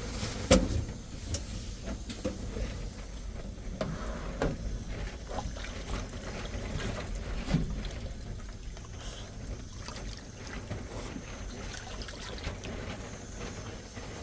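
Water trickling, with scattered light knocks and clicks; the sharpest knock comes about half a second in.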